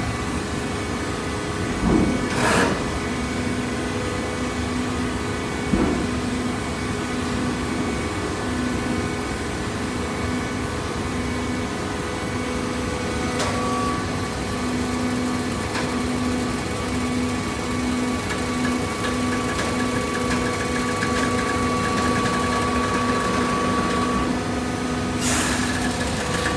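Hydraulic PET bottle baler running: a steady machine hum from its motor and pump, with a few brief knocks.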